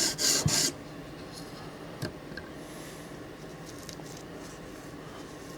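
The last strokes of a CBN sharpening stone rasping along a knife edge in a guided sharpener, about three strokes a second, stopping within the first second. After that comes a single light knock about two seconds in and a few faint clicks.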